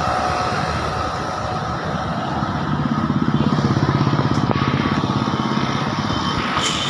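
Vehicle engine running, with an even rapid pulsing that grows louder about two and a half seconds in and eases near the end; a thin steady whine sits above it throughout.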